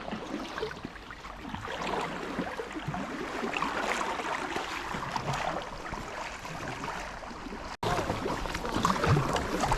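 Paddling in an inflatable kayak: paddle blades dipping and water splashing and trickling, with some wind on the microphone.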